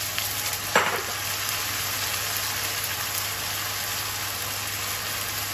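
Onion and spice masala sizzling steadily in oil in an iron karahi, a little water just added to the pan. One sharp knock sounds about a second in.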